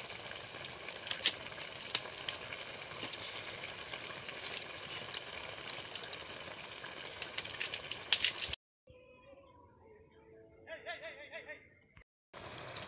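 Steady high-pitched insect trilling over an even hiss, with a few light clicks about eight seconds in. The sound cuts out twice briefly near the end, and between the cuts the trilling is clearer.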